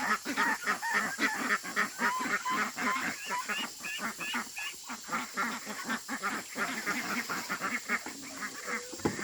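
A flock of domestic waterfowl calling continuously, with many quick overlapping honks and quacks.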